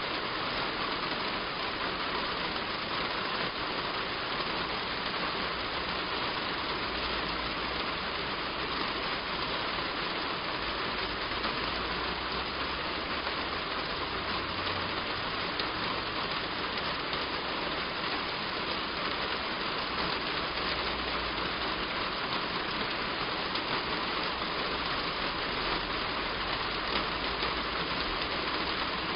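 Heavy rain falling steadily on a roof: a dense, even patter with a faint low rumble that comes and goes underneath.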